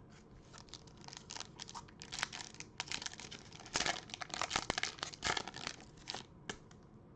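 Foil wrapper of a pack of trading cards being torn open and crinkled: a run of crackling rustles that starts about a second in and stops shortly before the end.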